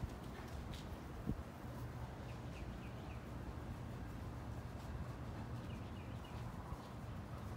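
Backyard ambience: a steady low rumble, with a bird chirping two quick runs of four short high notes a few seconds apart. A single soft thump sounds about a second in.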